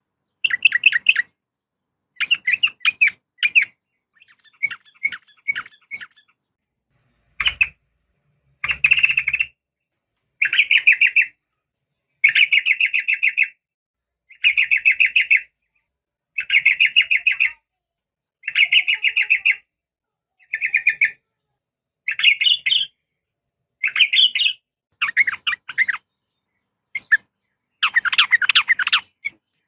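Sooty-headed bulbul (trucukan) calling: short bursts of quick, chattering notes, each about a second long, repeated every second or two with brief silences between. The uploader presents it as a female calling to males.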